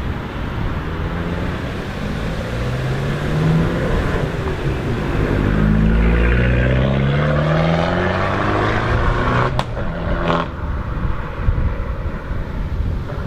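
Car engine accelerating hard away, its pitch climbing in several rising sweeps through the gears, loudest about six seconds in. It is followed by two sharp pops under a second apart.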